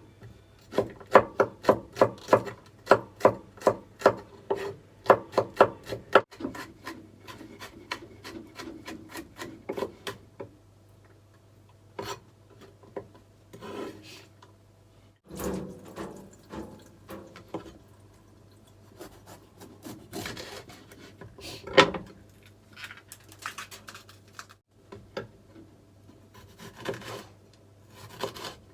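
Kitchen knife cutting on a wooden chopping board: a steady run of sharp strokes, about three a second, for the first ten seconds or so, then scattered cuts and scraping sounds.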